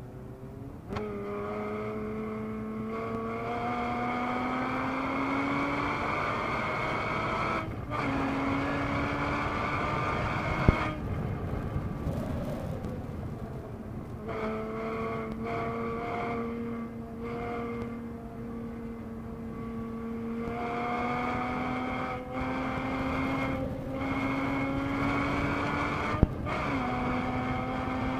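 2013 Porsche Boxster S (981) 3.4-litre flat-six engine heard from inside the cabin under hard acceleration on track. Its pitch climbs steadily through each gear and drops at the upshifts, and it eases off briefly midway for a corner. There are two sharp clicks, one about a third of the way in and one near the end.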